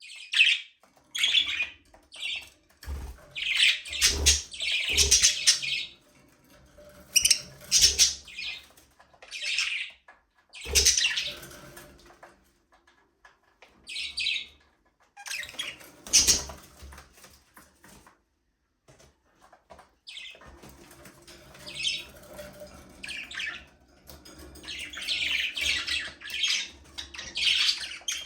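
A flock of budgerigars chirping and chattering in quick bursts, with a couple of seconds' lull about two-thirds of the way through. A few soft low thumps come in between.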